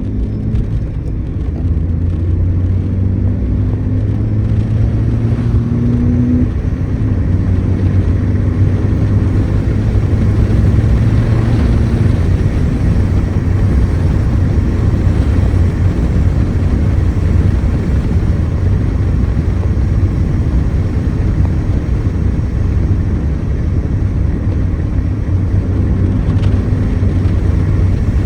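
Honda Fit's four-cylinder engine pulling hard under acceleration, its pitch climbing and dropping back at upshifts over the first six seconds or so. Then a steady rush of wind and road noise through the open windows at speed, with the engine drone underneath.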